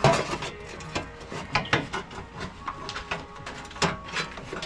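A run of irregular mechanical clicks and knocks, several a second, with a couple of louder knocks: hand tools and metal parts being worked on.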